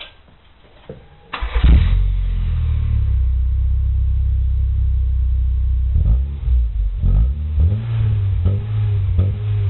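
A 1998 Rover 214's 1.4-litre 16-valve four-cylinder engine starting about a second in and settling to a steady idle, then revved in short blips over the second half, heard through a stainless steel aftermarket exhaust backbox.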